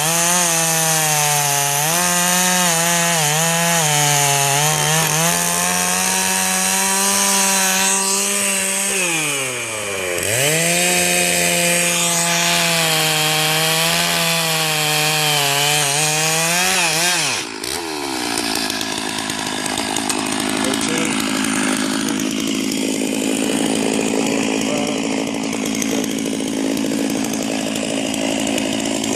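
Two-stroke chainsaw at high revs cutting through a felled pine trunk, the pitch wavering as the chain bites. It eases off and revs back up about ten seconds in. Around seventeen seconds in it drops to a lower, steadier running sound.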